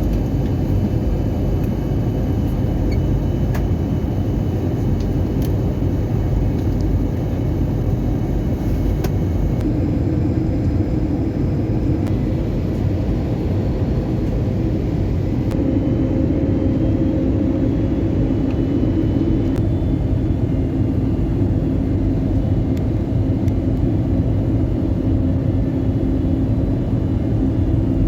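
Passenger airliner cabin noise in flight: a steady rumble of the jet engines and airflow heard from inside the cabin, as the plane nears its descent for landing. A low hum grows stronger about halfway through.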